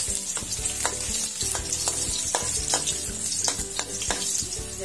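Sliced garlic sizzling in hot oil in a metal wok, with a metal spatula stirring it and clicking and scraping against the wok again and again.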